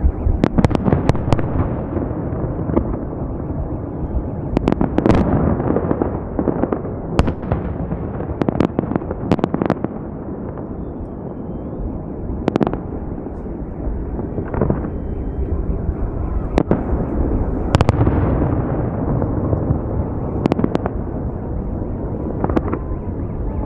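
A fireworks salute: shells bursting in a continuous rolling rumble, with many sharp cracks and bangs scattered throughout.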